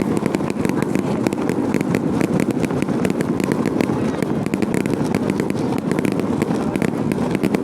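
Fireworks going off in a rapid, continuous barrage: dense crackling over a steady low rumble of bursts.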